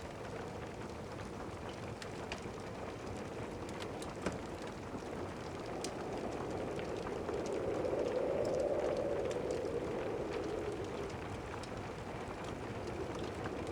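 Steady rain hiss with scattered sharp crackles from a wood fire. About eight seconds in, a low distant thunder rumble swells and fades.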